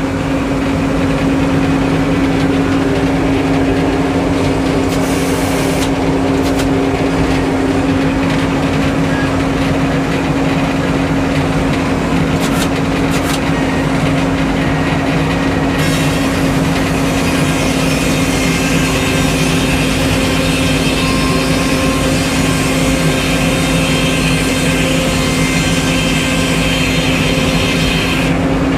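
Sawmill engine running steadily at a constant speed, with a brighter hiss joining about halfway through.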